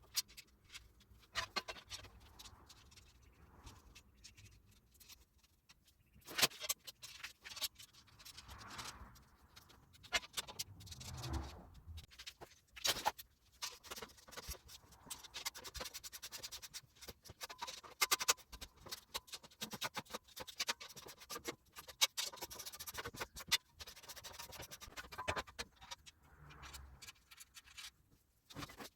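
Irregular clinks, knocks and scrapes of steel stand parts and bolts being handled and fitted together by hand.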